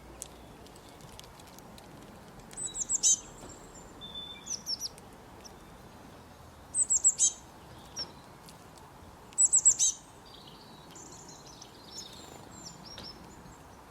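A small songbird calling: three loud bursts of three or four quick, high, falling notes, with softer chirps between and a quieter scratchy twittering near the end.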